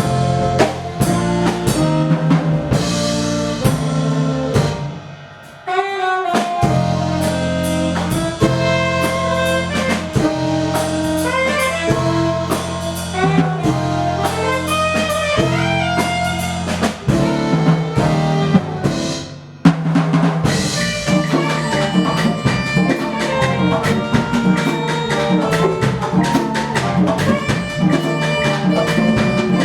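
Live band music: Afro-Cuban percussion and drums keep a steady groove under a melody line. The band cuts out briefly about five seconds in and again just before twenty seconds, then comes back in.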